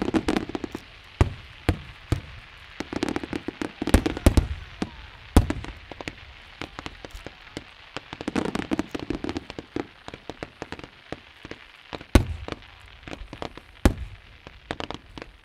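Fireworks going off: a dense, irregular run of sharp bangs and crackles, with a few louder booms about four, five and a half, and twelve seconds in.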